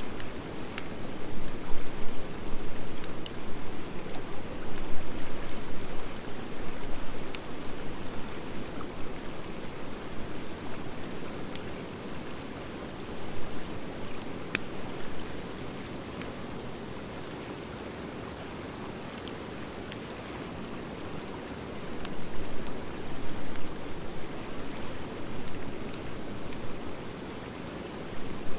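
Wood fire of driftwood and dry hardwood logs burning: a steady rushing of flames with scattered sharp crackles and pops. It swells louder for a few seconds near the start and again about three-quarters of the way in.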